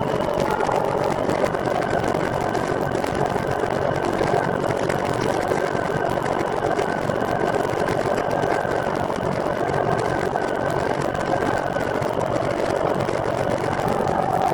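Steady running noise of a recumbent trike underway: a continuous mechanical hum with a faint steady whine over it, unchanging throughout.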